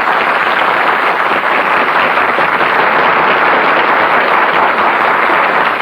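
Studio audience applauding, a dense, steady clapping that starts abruptly after a song ends.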